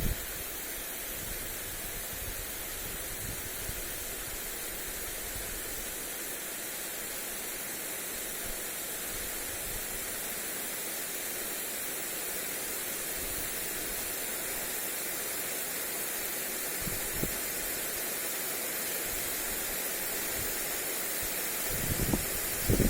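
Lawn sprinkler spraying water onto grass: a steady hiss, with a gust of wind buffeting the microphone near the end.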